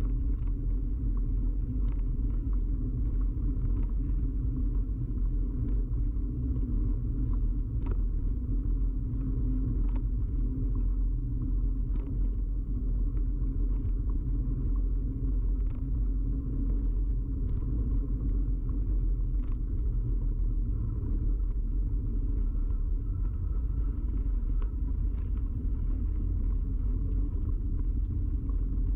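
Steady low rumble of a bicycle in motion, picked up through the frame by a camera firmly mounted on the bike, with faint light clicks or rattles every second or two.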